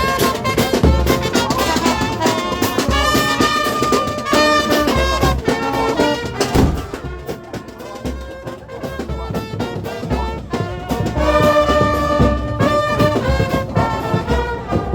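Brass band music: trumpets and trombones playing held notes over a steady drum beat.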